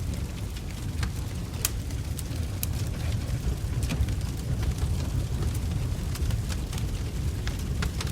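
Wood fire burning in a fireplace: a steady low rumble of flames with irregular sharp crackles and snaps from the logs.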